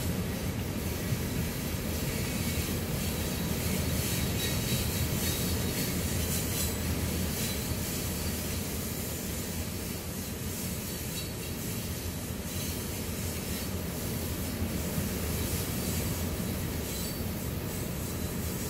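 Loaded coal hopper cars rolling past, with a steady rumble and clatter of steel wheels on the rails.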